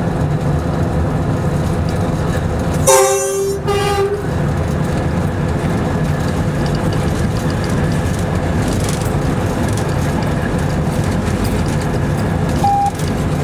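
Locomotive heard from inside the cab, running with a steady low drone. About three seconds in the horn sounds one short blast, followed by a shorter toot, and a brief high beep sounds near the end.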